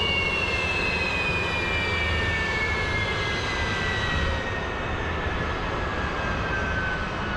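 Jet engine whine falling slowly and steadily in pitch over a steady rushing roar: a jet turbine spooling down after a flight.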